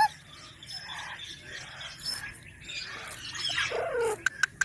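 Indian ringneck parakeet making soft chirps and calls, with a louder call that rises and falls about three and a half seconds in. Sharp clicks start near the end.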